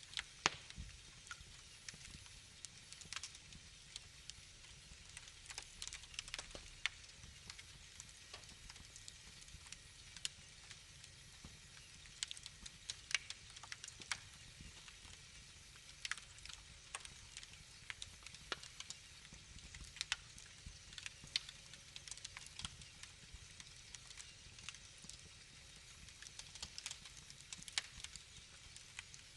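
Wood fire crackling in a fireplace: irregular sharp pops and snaps, a few of them louder, over a soft low rumble of the flames.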